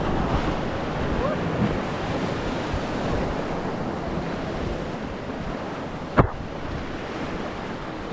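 Rushing river water with wind noise on the microphone, steady throughout. A single sharp knock about six seconds in.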